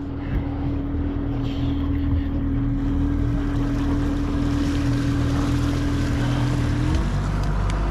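A fishing boat's engine running steadily with water and wind noise around it. About seven seconds in, its note shifts as the engine speed changes.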